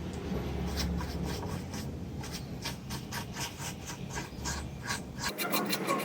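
Scratchy hand-scrubbing strokes on hardware being cleaned, a few a second and coming faster near the end.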